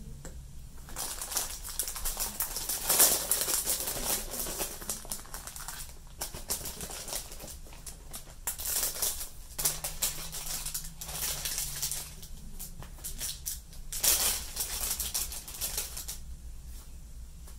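Paper sticker sheets and a thin packaging sleeve rustling and crinkling as they are handled and slid together, in several separate bursts.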